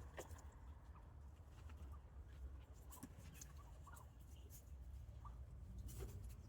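A flock of wild turkeys giving faint, scattered soft clucks, with a few light ticks among them.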